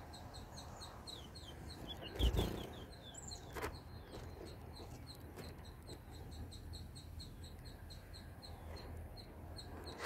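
Thin, high bird chirps repeating steadily about four times a second. About two seconds in comes a quick run of falling chirps with a dull thump, and a sharp click follows a second later.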